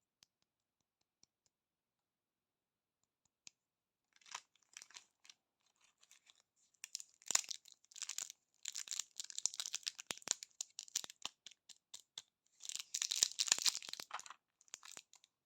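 Candy wrappers being torn open and crinkled by hand in irregular crackly bursts. It starts about four seconds in and grows busiest in two spells, the second near the end.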